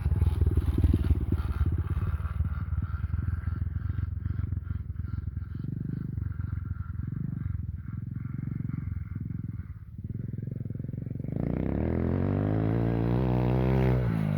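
Stomp FXJ 110cc pit bike's single-cylinder four-stroke engine being ridden, the throttle opened and closed in uneven swells for most of the clip. About three-quarters of the way in it gets louder and its pitch climbs steadily as the bike accelerates, dipping once briefly before climbing again.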